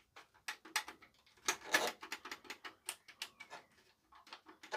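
Front-panel push buttons of a JVC RX-320V stereo receiver clicking as they are pressed one after another in quick, uneven succession. The receiver gives no response to any of them: the buttons are not working.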